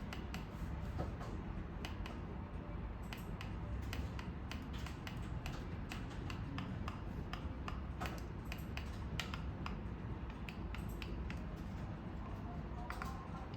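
Electric fireplace insert running with an irregular crackling of sharp clicks, several a second, over a steady low hum, like the simulated log-crackle of an electric fire.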